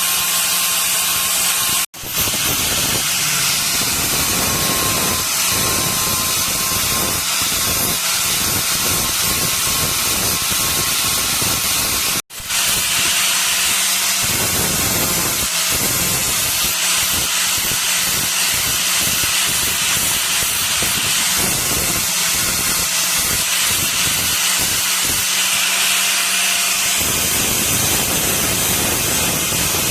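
Steady loud rushing hiss with rapid, irregular low knocks over it. It drops out for an instant twice, about two seconds in and about twelve seconds in.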